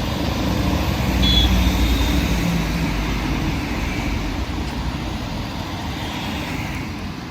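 Street traffic, with a vehicle passing close by: a low engine rumble that swells to its loudest a second or two in, then slowly fades.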